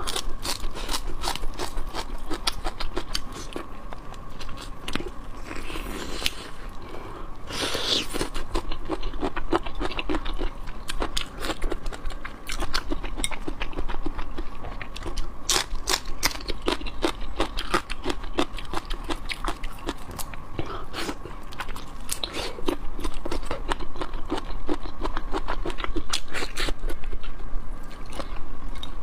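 Close-mic chewing and crunching of black tiger shrimp: a dense, irregular run of small bites, crunches and mouth clicks, with a faint steady tone underneath.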